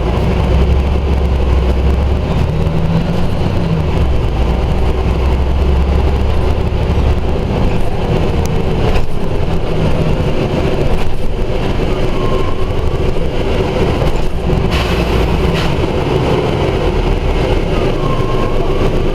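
Scania Omnidekka double-decker bus's diesel engine running as the bus drives, with a deep rumble that eases off about seven seconds in. Two short squeals and a brief hiss come later.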